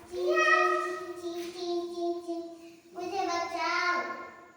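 A child singing in long drawn-out notes: one note held steady for about two and a half seconds, then a shorter phrase that falls in pitch near the end.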